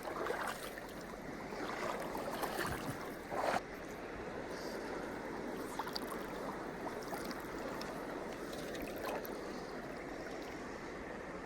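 Steady rush of a river flowing, with a brief louder noise about three and a half seconds in.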